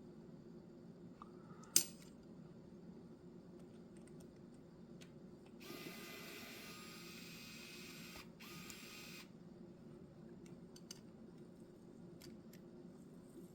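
Quiet clicks and ticks of small parts and tools being handled during a smartphone repair, with one sharp click about two seconds in. A few seconds of hiss run through the middle.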